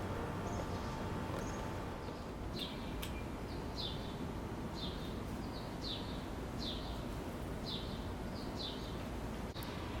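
A bird chirping over and over, in short falling chirps about one or two a second, over a steady low background hum.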